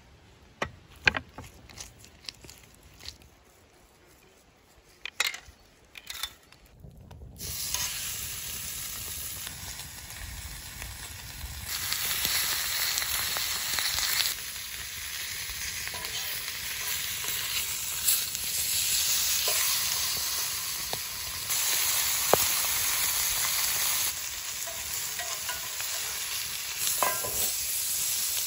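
A few sharp knocks and clatters, then food frying in a hot pan: a steady sizzle starts about seven seconds in and grows louder in steps, with small pops.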